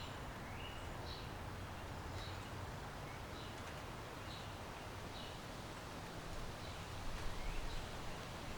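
Backyard ambience: a bird repeating a short, high chirp about once a second over a steady hiss of distant city noise. Wind starts buffeting the microphone with low rumbles near the end.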